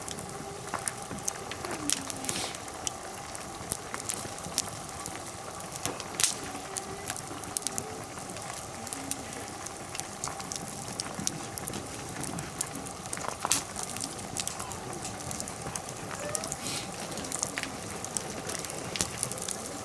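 Wood fire crackling in a fire pit, with many sharp, irregular pops and snaps over a steady low hiss.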